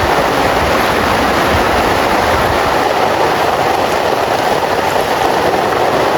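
Heavy rain pouring down steadily: a loud, even wash of noise with no breaks or changes.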